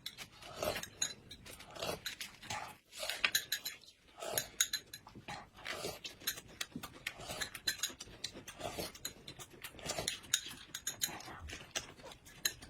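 Close-up eating sounds: irregular slurping and chewing mixed with short clicks.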